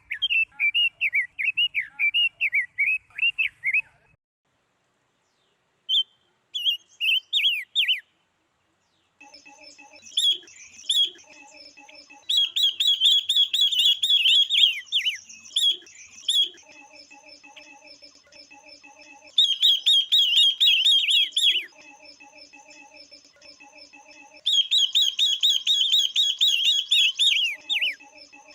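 Calls of female silver-eared mesia and female red-billed leiothrix, rapid high chirping in bursts: a lure meant to stimulate the males. Twice the calls break off into silence, and from about nine seconds a softer, lower repeating pattern runs under three loud bursts of fast chirps.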